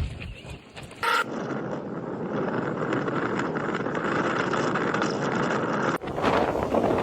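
Strong wind blowing hard, with wind buffeting the microphone. The sound changes abruptly about a second in to a steadier, louder rush, and changes again near the end to gustier buffeting.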